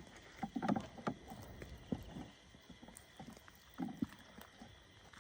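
Scattered soft knocks and clatter of dishes and utensils being handled as a meal is set out, over a faint steady high hum.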